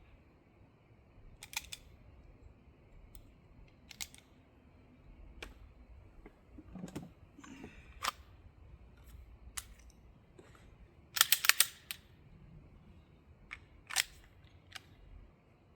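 Scattered sharp clicks and snaps of a pistol magazine being handled and loaded with 10mm FMJ cartridges, with the loudest rattle of clicks about eleven seconds in.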